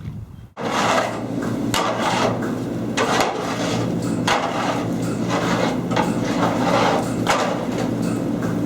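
Steady machine hum with irregular clattering and knocking over it, starting abruptly about half a second in.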